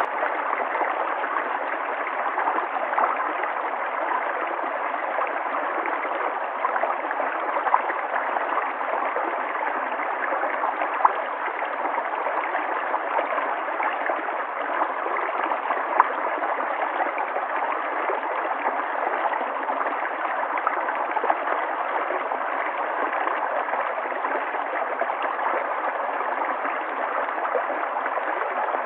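River water flowing and gurgling steadily over rocks, an even rushing with small splashes scattered through it.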